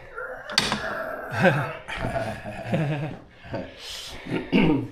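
A dog's voice: about three short calls that slide down in pitch, with the loudest about a second and a half in.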